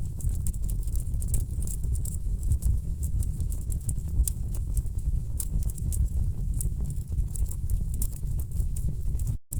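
Wood fire burning in a fireplace, with frequent irregular sharp crackles and pops over a steady low rumble. The sound cuts out for a split second near the end.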